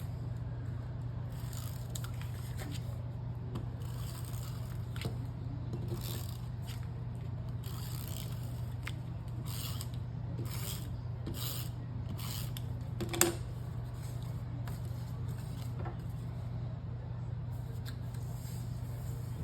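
Paper being handled, rubbed and pressed down while a folded paper piece is glued, giving brief scattered rustles and scrapes, with one sharp tap about 13 seconds in. A steady low hum runs underneath.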